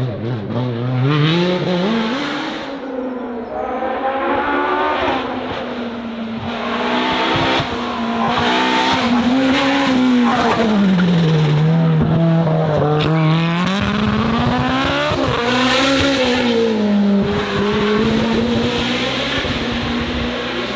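Hillclimb race car engine at high revs, its pitch climbing and dropping over and over as it accelerates, shifts and lifts off through a run of corners.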